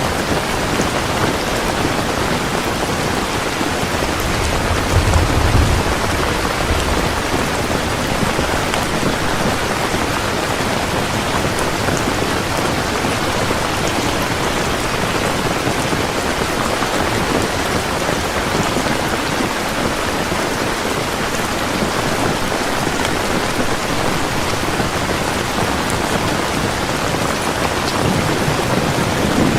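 Heavy rain falling steadily, with a brief low rumble of thunder about five seconds in.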